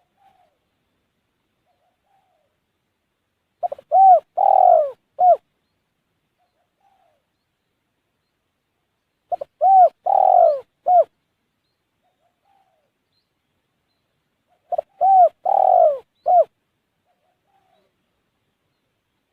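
Spotted dove (tekukur) cooing: three phrases about five and a half seconds apart, each a short note, a longer falling coo and a short closing note, with faint soft notes in the gaps.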